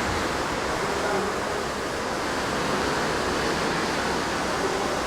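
Steady rushing noise of open sea and wind heard from a cruise ship's deck, with no distinct events.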